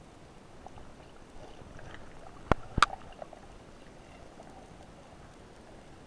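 Two sharp clicks underwater, about a third of a second apart, a little past two and a half seconds in, over a faint steady hiss of water.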